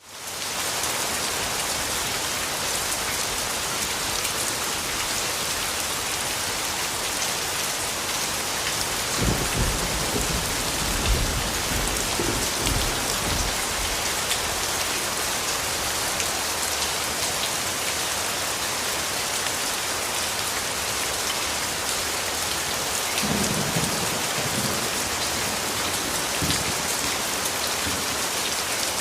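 Steady rainfall hissing, with distant thunder rumbling low twice: a long roll about a third of the way in and a shorter one near the end.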